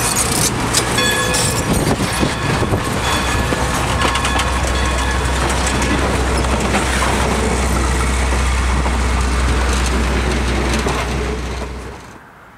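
Passenger coaches of a steam excursion train rolling past at close range, steel wheels rumbling and clicking over the rails. The sound drops away abruptly near the end.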